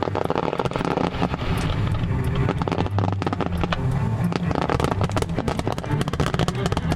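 Aerial fireworks crackling and popping in a fast, irregular stream of sharp cracks that grows denser through the second half, over a steady low rumble.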